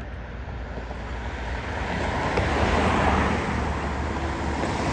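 A road vehicle approaching and passing, its tyre and road noise swelling to a peak about three seconds in and then easing off over a steady low rumble.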